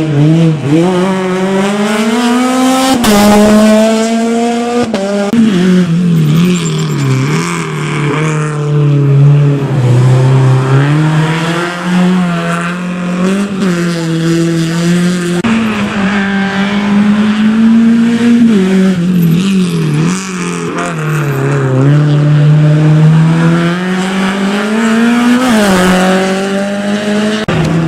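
Rally car engine driven hard, its note rising and falling over and over as it revs up, lifts and shifts.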